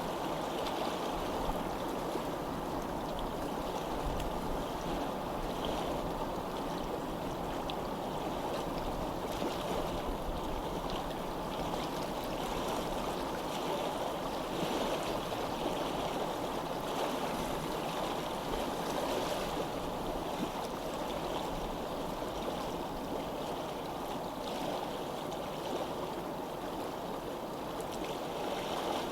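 Stream water flowing steadily, an even rushing and babbling.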